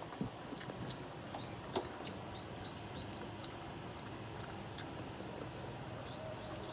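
A small bird chirping repeatedly: a quick run of falling chirps, then a string of shorter chirps, with a few sharp clicks.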